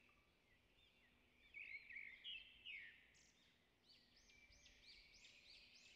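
Near silence with faint bird chirps: short, repeated high calls in two runs, the second starting about halfway through.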